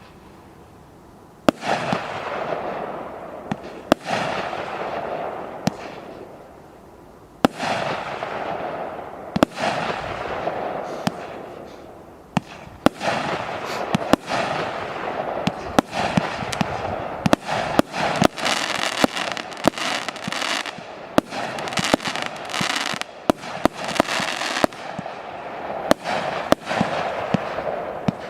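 A 100-shot, 20 mm (0.8-inch) firework cake firing: sharp launch bangs, each followed by a fading noisy tail from the bursting effects. The shots start about a second and a half in, come a second or two apart at first, then pick up to a quicker, denser string from about halfway.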